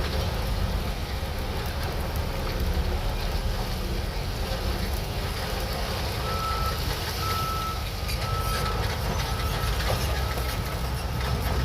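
Shantui DH17C3 bulldozer's diesel engine running under load with a steady low rumble and track clatter. About halfway through, a backup alarm starts beeping at a regular pace.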